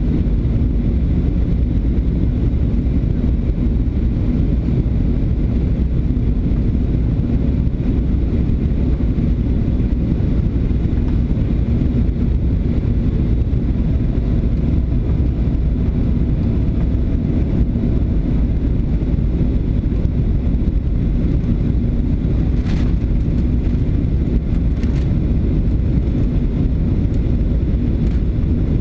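Steady low rumble of a Boeing 737's engines and rushing airflow, heard inside the cabin during the landing approach, with a faint steady hum and two small clicks late on.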